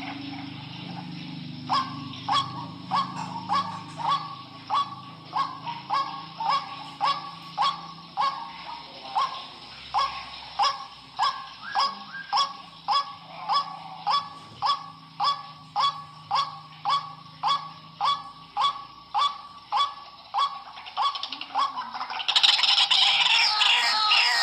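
White-breasted waterhen (ruak-ruak) calling: a steady run of short, evenly spaced notes, a little under two a second. Near the end it breaks into louder, denser, overlapping calls.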